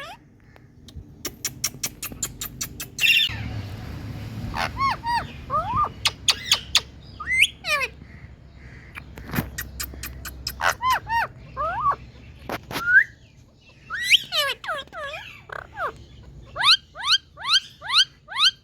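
Indian green parrot squawking in short, sharp calls that sweep steeply up and down in pitch, coming in clusters of several at a time. A quick run of sharp clicks comes before the first calls.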